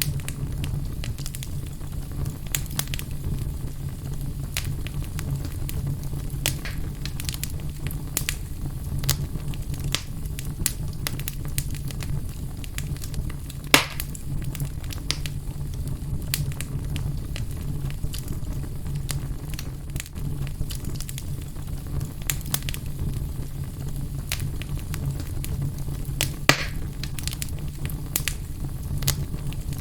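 Fire burning in a fireplace: a steady low rumble with scattered crackles, and a sharper pop about halfway through and another near the end.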